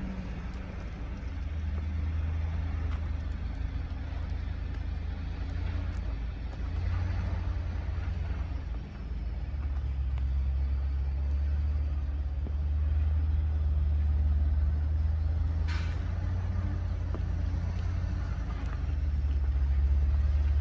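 Engine of an old GMC logging truck running, a low drone that shifts in pitch several times as the load and revs change. A short sharp noise stands out about three-quarters of the way through.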